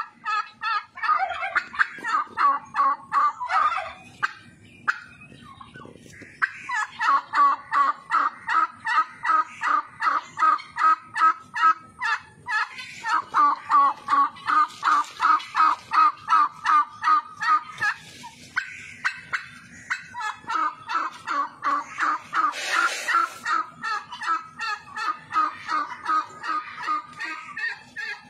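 Domestic poultry calling in fast, evenly repeated calls, about three a second, in long runs with short breaks between them.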